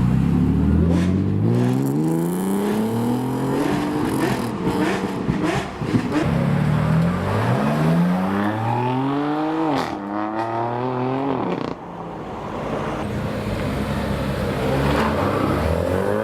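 Supercar engine accelerating hard through the gears: the note climbs, drops sharply at each upshift, then climbs again, with a few sharp cracks along the way.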